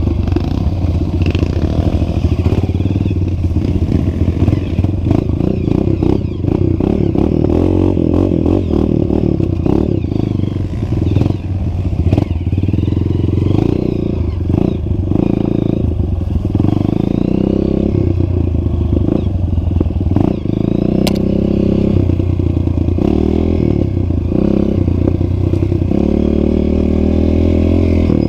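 Trail motorcycle engine running loud, its pitch rising and falling with the throttle, with frequent knocks and rattles throughout.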